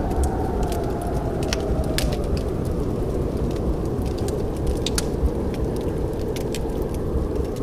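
Wood fire crackling in a fireplace: irregular sharp pops and snaps over the steady low rumble of the burning fire.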